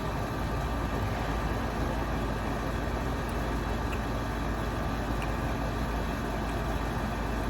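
A steady mechanical drone with a few faint small clicks.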